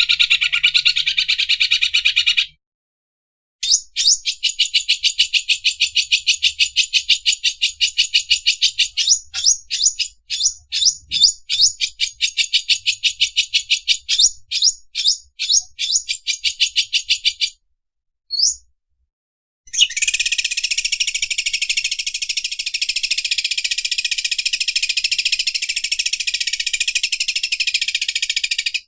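Green leafbird (cucak ijo) singing its 'overlock machine' (mesin obras) song: long runs of rapid, high, buzzy repeated notes. The runs break off twice for a second or two, and the notes slow and space out in the middle.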